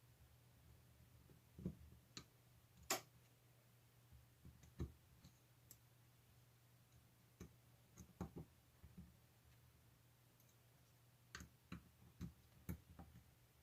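Faint, scattered clicks and taps of a screwdriver and small metal carburetor parts being handled while a motorcycle carburetor is taken apart, over a faint steady low hum.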